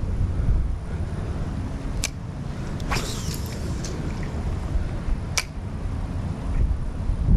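Wind buffeting the microphone with a steady low rumble, broken by two sharp clicks about two and five seconds in and a short rush of hissing noise about three seconds in.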